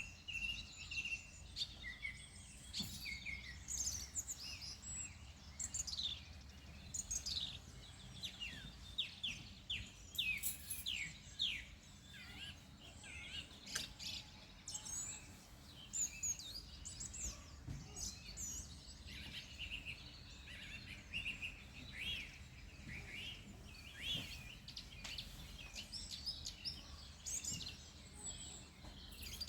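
Many small songbirds chirping and singing together, with quick downward-slurred notes and trills overlapping continuously, over a low steady background rumble.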